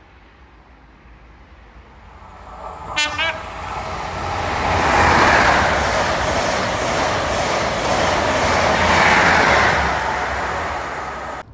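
A diesel High Speed Train approaching and passing at speed. It gives a short horn blast about three seconds in, then the rush and rumble of the passing coaches grows loud and holds through the middle before easing off near the end.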